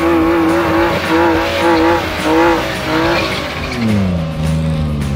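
BMW E36 drift car's M54B30 straight-six held at high revs while drifting, the revs swelling and dipping about every 0.7 s over tyre noise. A little past three seconds the revs fall away and settle at a lower, steady pitch.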